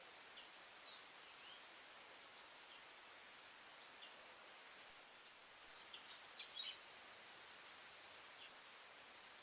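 Birds chirping faintly: scattered short high chirps and trills, a pair about a second and a half in and a busier run around six seconds in, over a soft steady hiss of forest ambience.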